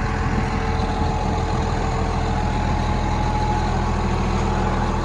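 Komatsu D65EX bulldozer's diesel engine idling steadily, heard from inside the cab.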